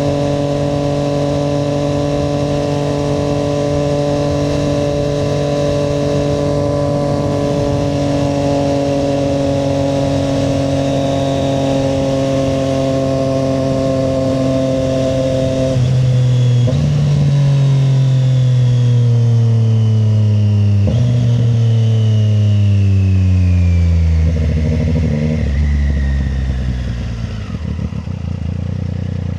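Triumph Street Triple 765 RS inline three-cylinder engine, heard while riding. It holds a steady note for about the first half, then the pitch steps down at about 16 s and again at about 21 s and falls steadily: the bike is slowing, changing down through the gears on engine braking.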